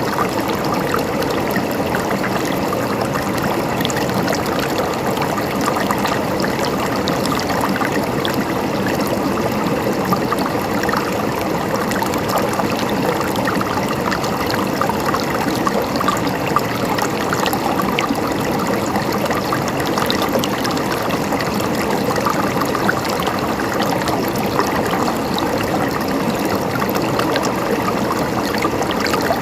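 River water flowing steadily over rocks, a continuous rushing and babbling with many small splashes.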